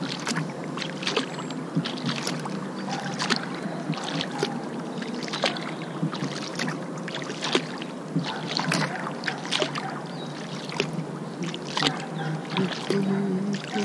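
Kayak paddle strokes, the blades dipping and splashing in the river water about once or twice a second.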